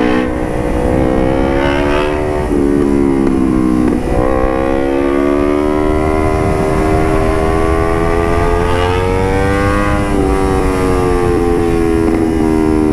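Motorcycle engine through a carbon Puresound aftermarket exhaust, running under way: the note drops in pitch at gear changes about two and a half and four seconds in, then climbs slowly as the bike pulls and eases off about ten seconds in. Low rumble of wind and road noise underneath.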